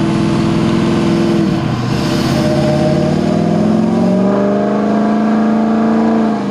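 Diesel truck engine running under load on a chassis dyno: steady pitch, then a drop about a second and a half in like a gear change, then the pitch climbs steadily as the engine pulls up through the gear.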